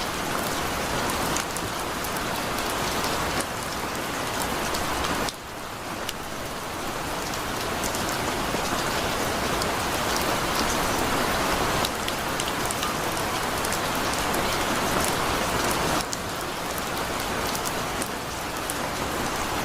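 Heavy rain pouring steadily, a dense hiss with the patter of individual drops striking. The level dips briefly about five seconds in and again about sixteen seconds in.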